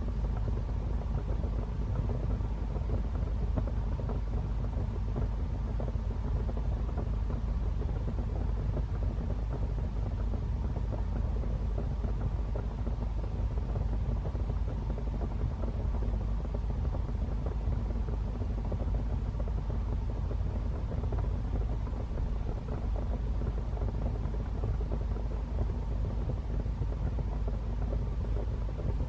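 Wood fire burning in a fireplace: a steady low rumble of the flames with a constant patter of small crackles and pops.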